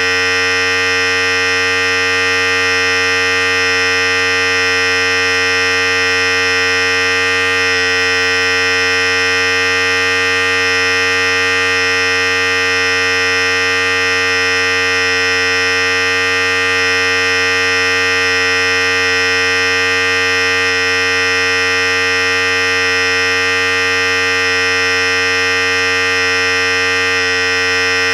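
Philips Series 5000 electric hair clipper running continuously, a steady buzz that holds the same pitch throughout.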